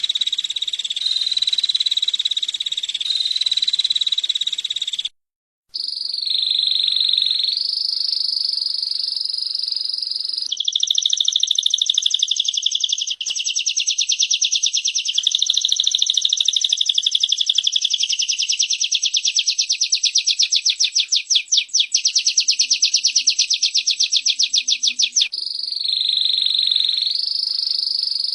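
Female prinia (prenjak) and canary calling: continuous high-pitched rapid trills, cut by a brief total silence about five seconds in. From about ten seconds a long, fast buzzing trill runs for some fifteen seconds before the higher trills return.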